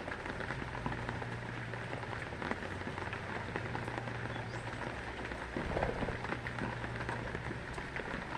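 Heavy rain falling, with many drops pattering and ticking on a hard surface, and a brief louder spell a little past the middle.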